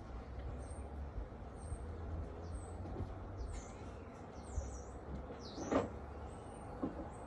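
Garden birds chirping in short, high, repeated notes over a low wind rumble on the microphone, with a louder short downward sweep a little before the end.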